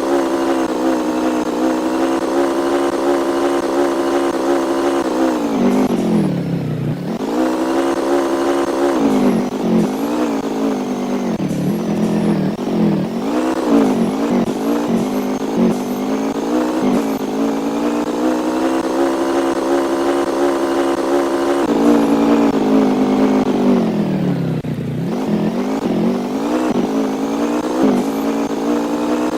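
An engine running at a steady speed; its pitch drops and climbs back twice, and wavers for a few seconds in between.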